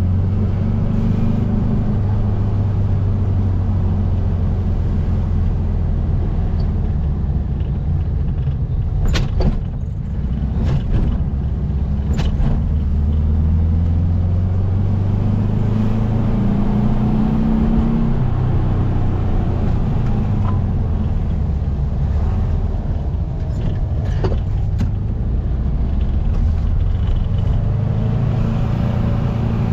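The 1700cc air-cooled flat-four engine of a VW Baja Bug running while driving, its pitch rising and falling with the throttle. A few short, sharp clicks or knocks come partway through, and two more later on.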